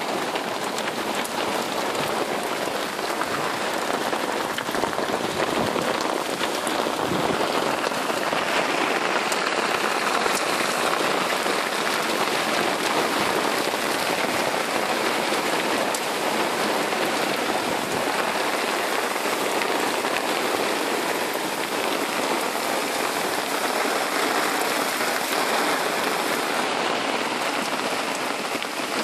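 Rain of a thunderstorm falling steadily, an even hiss with no break.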